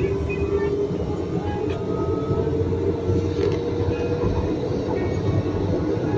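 Manila MRT Line 3 train running: a steady low rumble with a steady whine above it.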